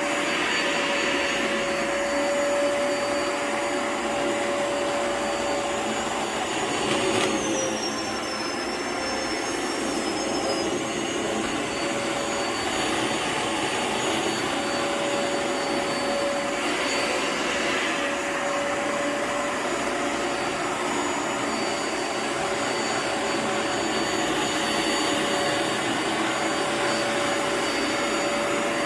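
Vacuum motor running steadily with a constant whine, dipping briefly in pitch once about a quarter of the way through, with swells of rushing air every few seconds as the machine is pushed back and forth over a rug.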